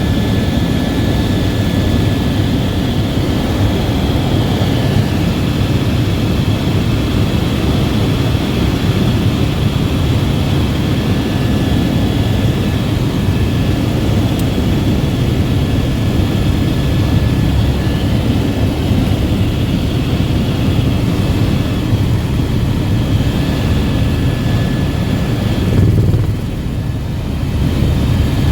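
Helicopter running steadily, a loud deep drone with a thin, steady high whine over it. It turns briefly quieter near the end.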